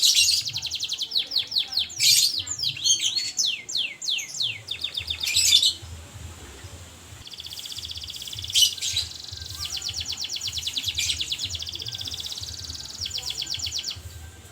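Domestic canary singing: long runs of fast trills and rolling phrases, with a string of quick falling sweeps a couple of seconds in, then softer, steadier trills from about halfway on.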